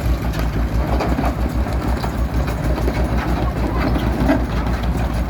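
Heavy diesel engine of road-works machinery running, with a steady low throb pulsing several times a second.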